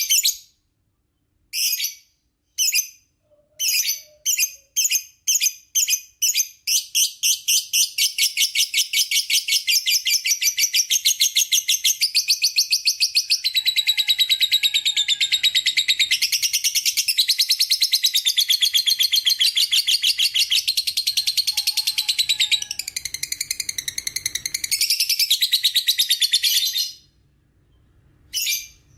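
Lovebird singing its long 'ngekek' chatter. A few separate high chirps come faster and faster until they run together into one rapid, unbroken trill lasting about twenty seconds, which then stops abruptly.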